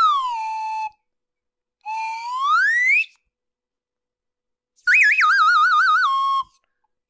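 Cartoon whistle sound effects: a falling whistle glide that ends about a second in, a rising glide a second later, then a warbling trill that steps down in pitch near the end.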